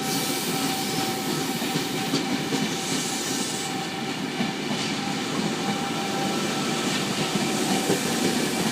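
NSW TrainLink V set double-deck electric intercity train rolling past, with steady running noise from wheels on rails and a few faint steady tones.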